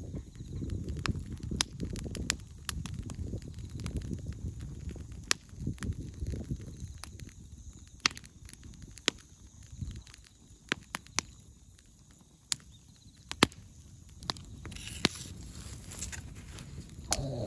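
Dry-wood bonfire burning, with sharp crackles and snaps at irregular moments over a low rumble that eases off after about seven seconds.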